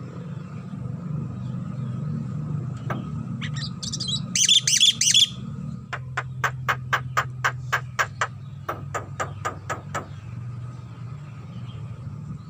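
Javan myna calling: a few high notes, then three loud harsh calls about four seconds in, followed by a fast run of sharp clicking notes, about four a second, for some four seconds. A steady low hum runs underneath.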